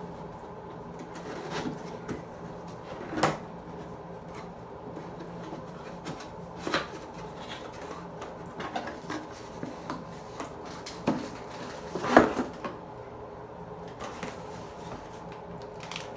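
Cardboard box and packaging of an electric water heater being opened and handled: scattered knocks, scrapes and rustles, the loudest a knock about twelve seconds in.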